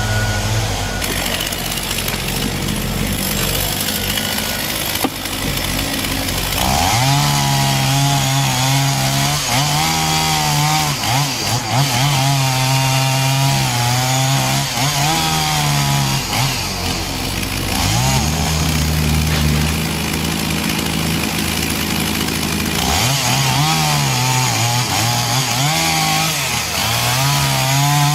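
Chainsaw running at high revs and cutting into wood, its pitch repeatedly dipping and rising under load, with a stretch of steadier running in the middle.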